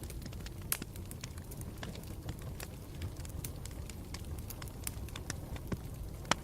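Campfire burning with a low, steady rumble and irregular sharp crackles and pops, a louder pop about three-quarters of a second in and another near the end.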